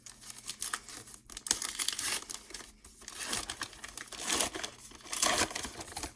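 Irregular crinkling and rustling of trading cards and their pack wrapper being handled and shuffled.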